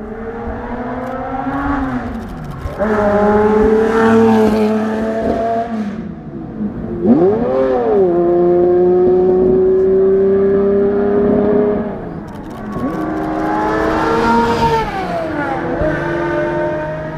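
Yamaha OX99-11 supercars' Formula 1-derived V12 engines running at speed, their pitch climbing and dropping as they rev through the gears and drive past, with a sharp rise and fall about seven seconds in followed by a long steady high-revving stretch.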